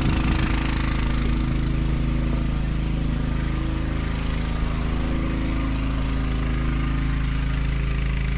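Small engine of a portable water pump running steadily at an even speed, driving water to lawn sprinklers.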